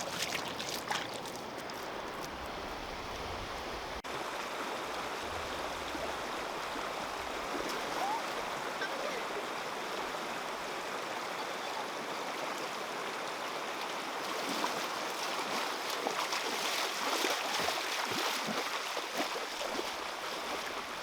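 Water running steadily, with a patch of small splashes and sloshing about two-thirds of the way through.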